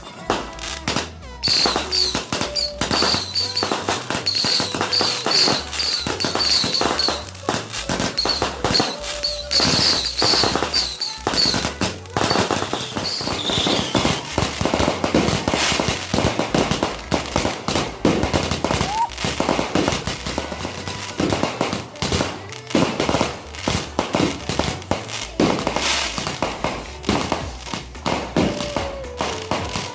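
Fireworks and firecrackers going off in a rapid, continuous barrage of cracks and pops. Short, repeated high whistles run through the first half.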